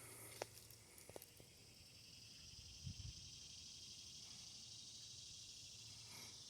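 Near silence outdoors: a faint steady high hiss, a couple of small clicks near the start and a soft low knock about three seconds in.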